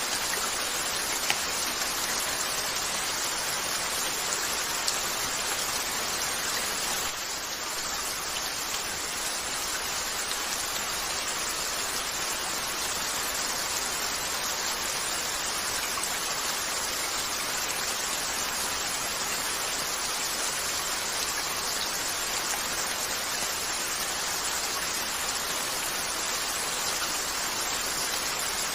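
Steady rain falling on a window, an even hiss throughout, with a few isolated sharp ticks.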